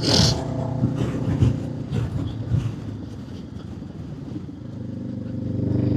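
Motorcycle engine running under way, with wind noise. The engine eases off in the middle, then picks up and grows louder towards the end.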